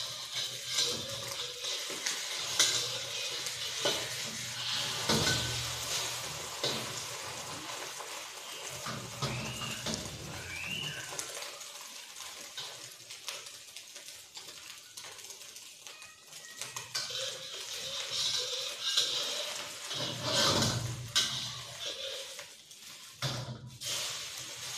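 An egg frying in hot oil in a steel wok, sizzling steadily, with a metal spatula scraping and clicking against the pan as it is turned and flipped.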